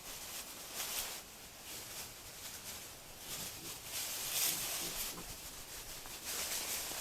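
Wild boar rustling through leaf litter and undergrowth while foraging, in uneven bursts, the strongest about a second in and again between about three and a half and five seconds.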